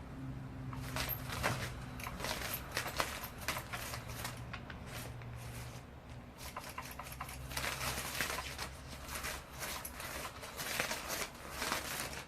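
Electric cat toy with a low motor hum, under many quick clicks and rustling scratches as a cat paws and claws at it.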